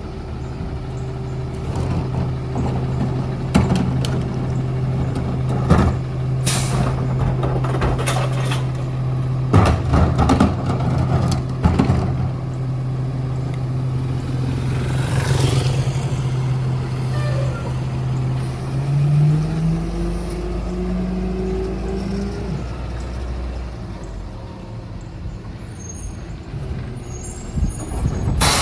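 Ford 750 garbage truck with a Heil rear-loader body, its engine running steadily, with a series of sharp clanks and bangs and a long air hiss near the middle. About two-thirds of the way in the engine revs up for a few seconds, then drops back.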